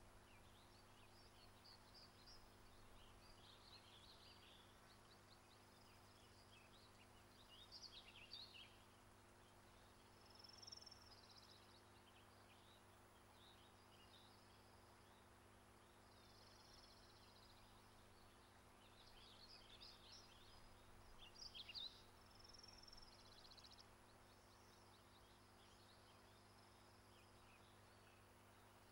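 Faint birdsong: scattered high chirps and short trills in clusters, loudest around eight, eleven and twenty-one seconds in, over a faint steady low hum.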